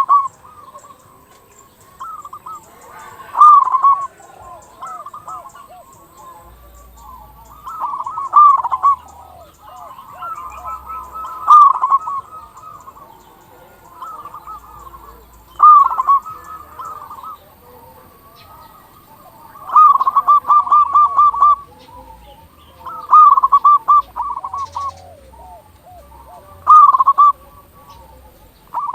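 Zebra dove (perkutut) singing: loud phrases of rapid, stuttering coos, repeated about every three to four seconds.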